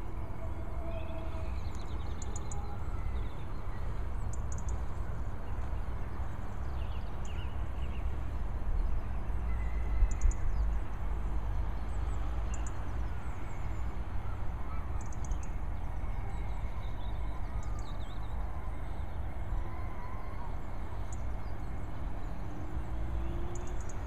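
Small birds chirping now and then, short high calls scattered throughout, over a steady low rumble.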